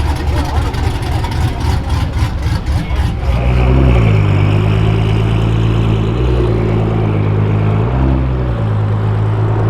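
An Infiniti's exhaust being revved hard in place. It starts with a fast run of blips, then holds high revs that rise and fall several times, with a trumpet-like note.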